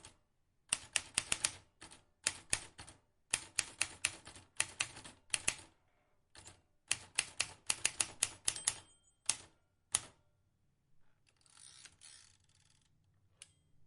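Vintage manual typewriter keys being struck in quick irregular runs of sharp clacks for about ten seconds. A longer rasping sound follows, then a single click near the end.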